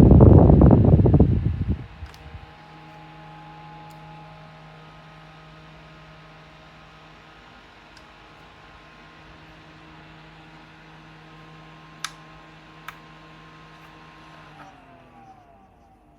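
Small rechargeable desk fan: a loud rush of air for the first two seconds, then its motor running steadily with a low hum. Two sharp clicks come about 12 seconds in, and near the end the motor's pitch falls away as the fan winds down.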